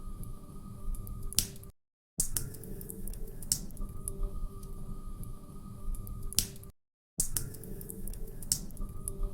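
Log fire crackling, with sharp pops and snaps over a low rumble and a faint steady hum. The sound cuts out to silence for about half a second twice, roughly five seconds apart, where a short recording loops.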